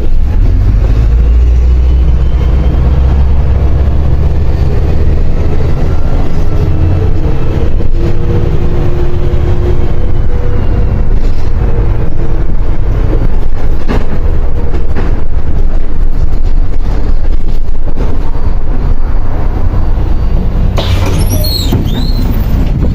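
MAZ 105.065 city bus under way, heard from inside: a steady low engine and road rumble with a faint whine that rises and falls in pitch. Near the end there is a brief high-pitched squeal.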